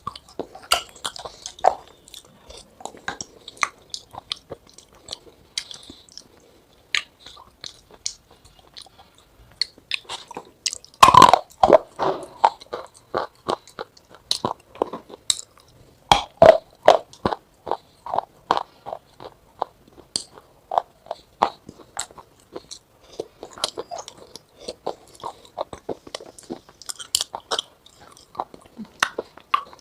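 Irregular crisp crunching and cracking, many sharp snaps in quick succession, with the loudest cluster about eleven seconds in and another around sixteen seconds.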